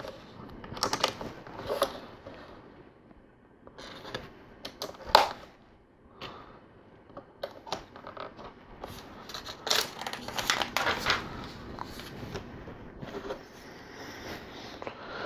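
Plastic LEGO pieces being handled and pressed together: scattered light clicks and clatters, with one sharper click about five seconds in and a busier run of clicking around ten seconds in.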